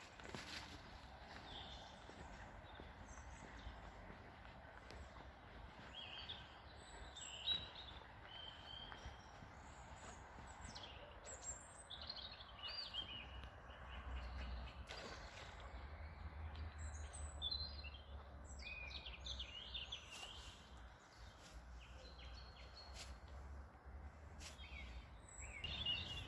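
Small songbirds chirping and singing in short, varied phrases over a faint low rumble, with a single sharp click about seven seconds in.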